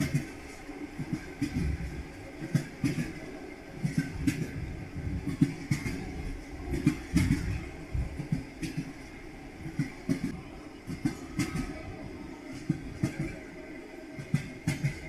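Train wheels knocking over rail joints: a steady low rumble broken by sharp clacks that come in uneven clusters, several a second.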